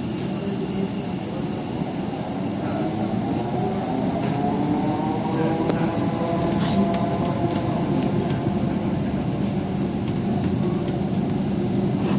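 Electric metro train of the Kolkata East-West Metro running, heard from inside the carriage: a steady rumble with a motor whine that rises and then falls in pitch in the middle.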